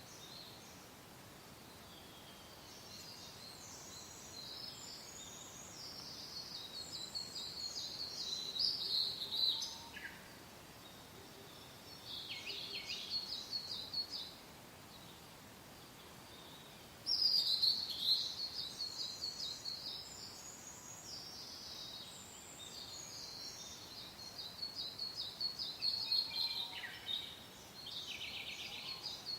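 Songbirds singing in several bouts of rapid, high chirping trills, with pauses of a few seconds between them, over a soft, steady wind hiss.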